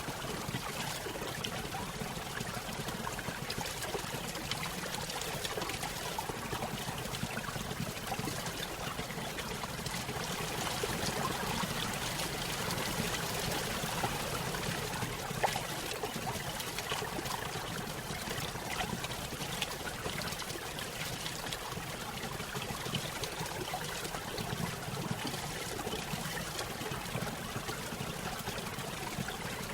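Small stream splashing over a little waterfall, a steady trickling and pouring of water.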